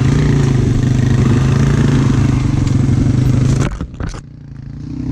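Dirt bike engine running steadily while riding a trail. Near the end, after a couple of sharp clicks, the sound suddenly drops away for about a second, then comes back.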